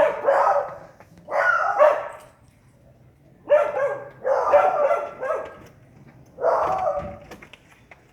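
Dogs barking furiously in repeated volleys of rapid barks, about five bouts with short pauses between them, at a porcupine they have cornered.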